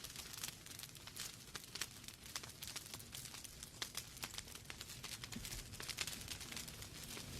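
Wood fire in a fireplace crackling, with many small irregular pops and snaps over a low steady rumble of the flames.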